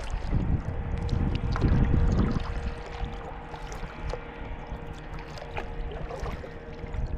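Water sloshing and splashing around a kayak as it is paddled, loudest in the first couple of seconds, with small knocks and drips and a faint steady hum in the middle.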